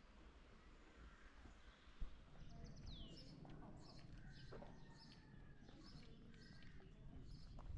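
Faint birdsong: short, repeated high chirps and a falling whistle, over a low outdoor rumble. A single sharp click about two seconds in.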